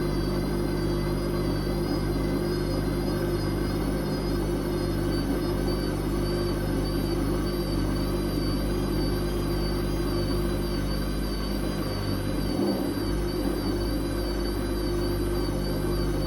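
Whirlpool Indiana 1400 washing machine with its drum spinning at steady high speed: a constant hum with a steady, slightly wavering whine above it.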